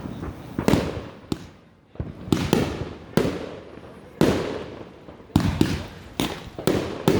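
Fireworks bursting one after another, about a dozen sharp bangs in quick succession, each trailing off in an echo.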